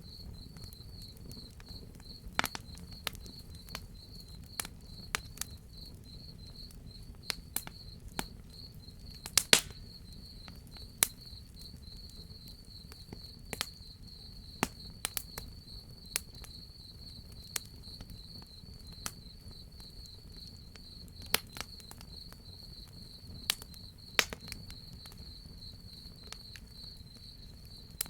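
Crickets chirping in a steady, fast, high trill, with a wood fire crackling in sharp, irregular pops and snaps, the loudest about a third of the way in, over a low steady rumble.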